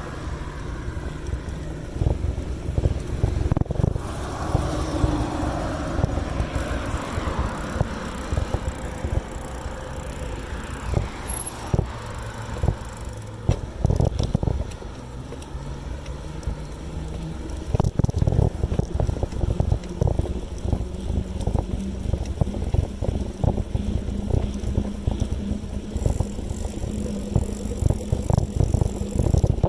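Wind buffeting the microphone and road rumble during a ride, with frequent bumps and knocks and a faint steady low hum underneath.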